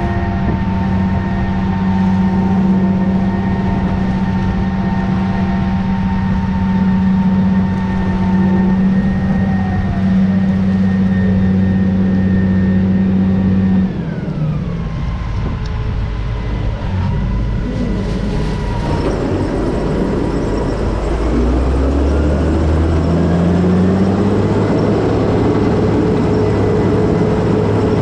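Heavy harvest machinery engine running under load with a steady drone. About halfway through, the pitch slides down and the level dips slightly. Later it climbs back up as the engine speed changes.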